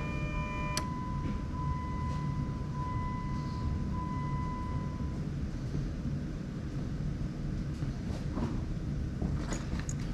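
Jeep Wrangler JK with the key on: a steady low rumble, and a thin electronic warning chime tone that stops about five seconds in. A few light clicks near the end.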